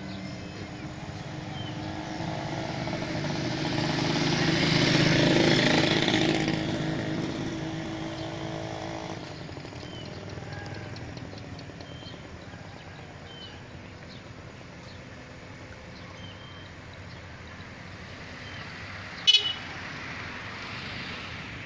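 A motor engine passes, growing louder to a peak about five seconds in and then fading. Small chirps sound throughout, and there is one sharp click near the end.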